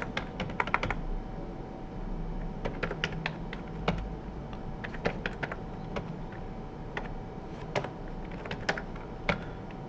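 Computer keyboard being typed on in quick, irregular runs of key taps, with numbers being entered on the numeric keypad.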